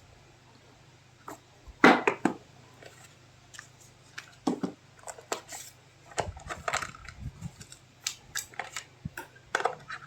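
Phone packaging being handled and opened by hand: irregular rustles, clicks and knocks, the loudest about two seconds in.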